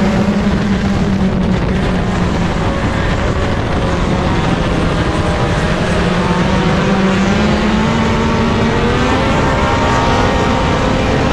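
Race car engine running steadily under way, its pitch sagging a little, rising again and dropping slightly near the end.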